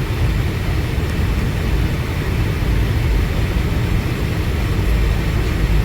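Steady low rumble inside the cabin of a Boeing 757-200 with its engines running.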